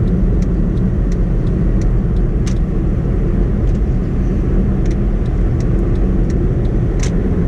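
Steady low rumble of a vehicle being driven along a road, with faint light ticks now and then.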